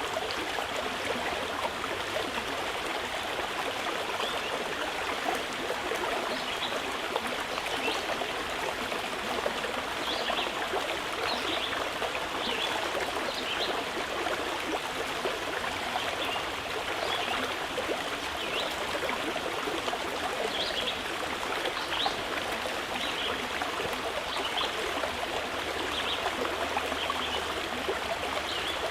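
Mountain river flowing in a steady rush, with short high chirps of small birds scattered throughout.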